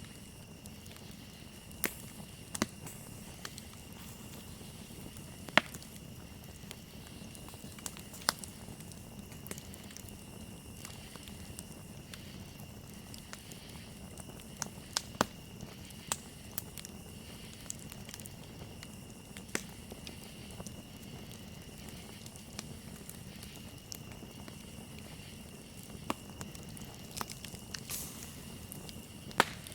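Wood campfire crackling, with sharp pops at irregular intervals over a low steady fire noise, and crickets chirping steadily in the background.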